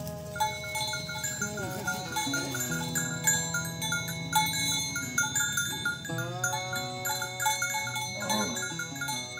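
Cattle mooing in long, drawn-out calls over background music with a quick repeating melody.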